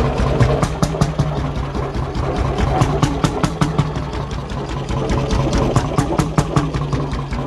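1957 McDonald type YD 25 hp two-stroke hot-bulb engine running steadily, with a sharp knock several times a second over a low hum. Its governor springs are too loose, so the speed is not held tightly.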